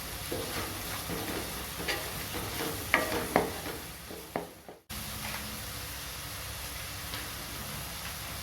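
Chopped vegetables sizzling as they are stir-fried in a pan, with several sharp knocks and scrapes of the spatula against the pan in the first half. The sound breaks off suddenly a little past halfway and comes back as a steadier sizzle.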